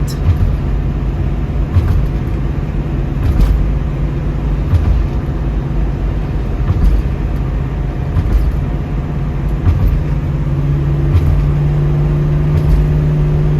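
1972 Ford Mustang Mach 1's V8 and road noise heard from inside the car, cruising steadily at highway speed. A steady engine drone, with the engine note growing a little stronger about ten seconds in.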